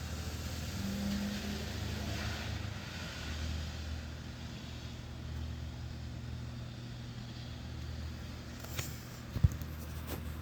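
A car driving past on a wet street, its tyre hiss swelling and fading over the first few seconds, over light rain and a steady low hum. A couple of sharp clicks come near the end.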